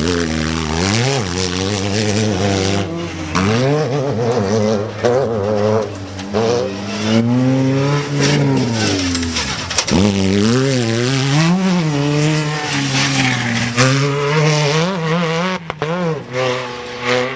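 Off-road race vehicle's engine at high revs, the pitch climbing and dropping every second or so as the driver works the throttle over rough desert ground.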